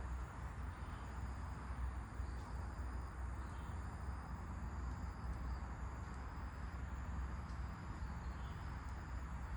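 Steady outdoor wind with a low rumble, under a faint high, even drone of insects and a few faint, brief bird chirps.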